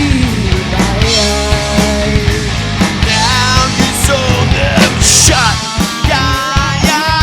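A live rock band playing an instrumental passage: drums and a full band under a lead line that bends up and down in pitch.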